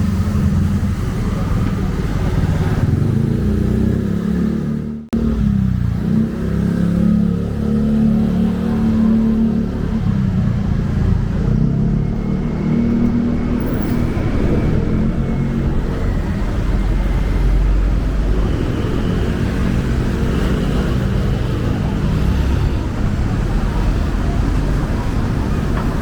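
City road traffic: cars and other motor vehicles running and passing in a steady low rumble, with the sound cutting out for a moment about five seconds in.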